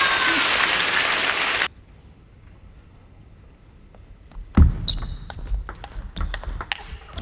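Crowd cheering in a sports hall cuts off abruptly, then after a short quiet a table tennis rally begins: a quick run of sharp ball clicks off bats and table.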